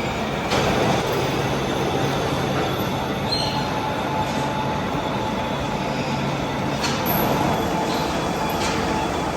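Heavy machine-shop machinery running steadily: a low hum under continuous metallic noise, with a few sharp clicks and brief high squeaks.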